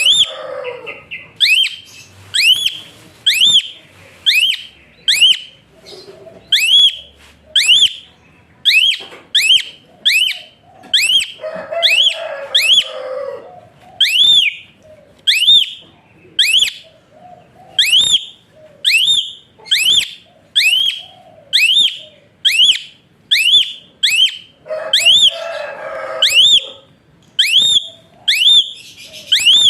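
Javan pied starling (jalak suren) calling a loud, clear whistle about once a second, each note a quick rise and fall in pitch. It breaks into stretches of rough, harsh chatter about a third of the way in and again near the end.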